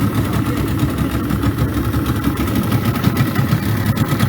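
Boat motor running steadily on floodwater.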